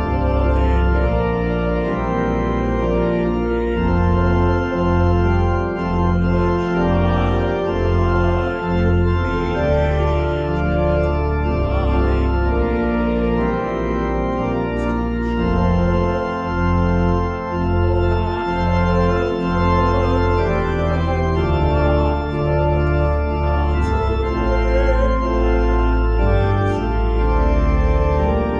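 Organ playing held chords over a deep, moving bass line.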